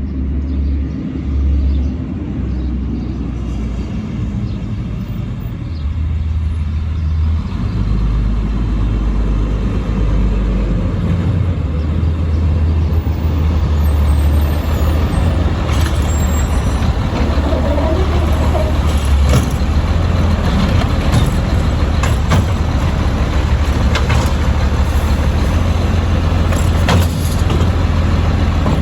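Autocar side-load garbage truck's diesel engine running with a steady low rumble that grows louder over the first ten seconds or so. Several short, sharp sounds come in over it in the second half.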